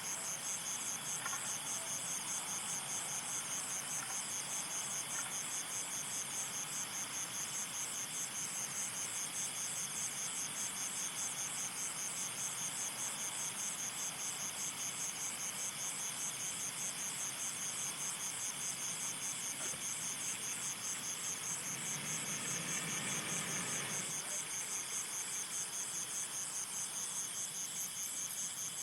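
Insects chirring steadily in a high, rapidly pulsing trill. A short, louder rushing sound rises and falls a little past two-thirds of the way through.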